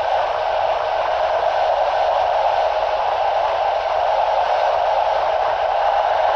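Steady rushing noise of a passenger train running at speed, heard from an open carriage window: wheels rolling on the rails and air rushing past, even and unbroken.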